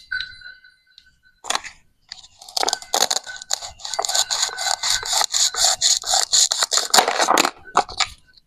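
A knife sawing at a plastic toy vegetable in quick rasping strokes, about five a second, for several seconds. Before it comes a short ringing clink and a single scrape.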